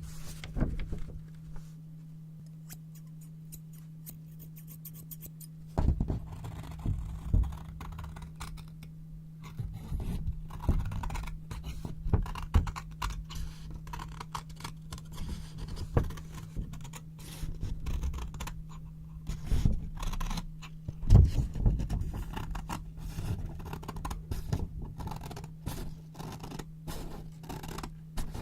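Scissors cutting sheets of white paper: crisp snips and paper crackling, sparse at first and coming thick and fast from about six seconds in. A steady low hum runs underneath.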